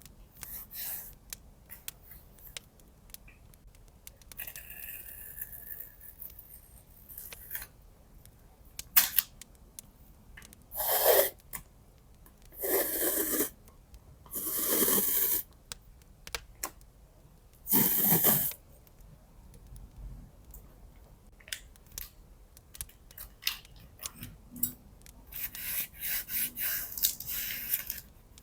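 Paper being torn in four separate rips, each about half a second to a second long, among light taps, clicks and rustling of paper being handled.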